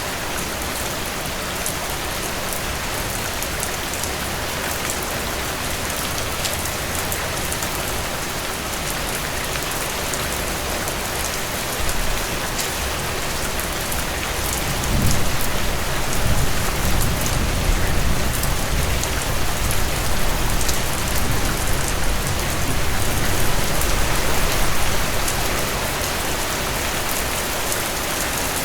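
Steady heavy rain, a dense hiss with the fine patter of drops. About halfway through, a low rumble swells up under it for around ten seconds, then eases off.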